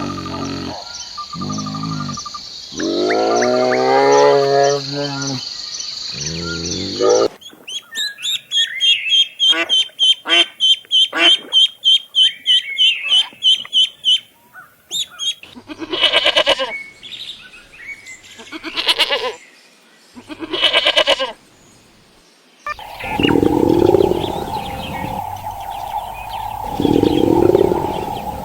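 A run of different farm-animal calls one after another. Drawn-out pitched calls come first, then a fast series of short high chirps for several seconds, then three separate calls with pauses between them, and two lower, longer calls near the end.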